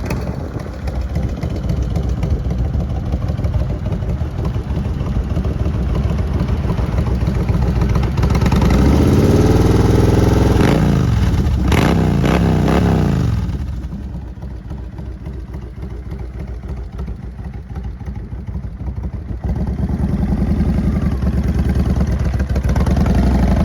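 Kawasaki Vulcan 1500's V-twin engine running, blipped up and back down twice about halfway through. It then drops back to a quieter idle and picks up again a few seconds before the end.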